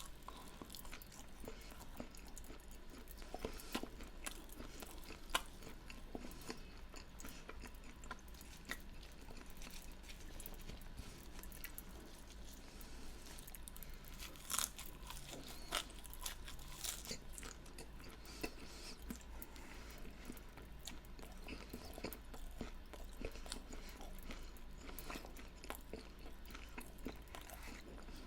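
Close-miked chewing with crisp crunches of fried food being bitten and eaten. It is a steady run of small crackles, with a few louder crunches scattered through.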